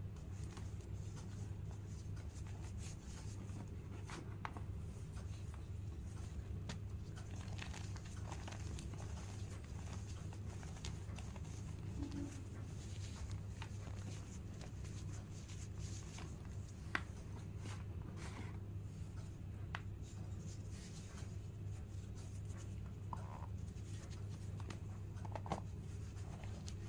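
White blackboard chalk crumbling and crunching, giving sparse, irregular small crackles and clicks over a steady low hum.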